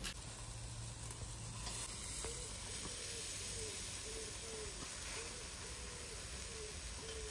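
Shashlik meat sizzling on skewers over hot charcoal, a steady hiss. A faint short tone repeats about twice a second from about two seconds in.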